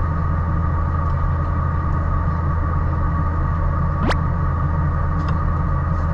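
Steady low engine drone with a constant hum. A quick rising whistle-like sweep comes about four seconds in.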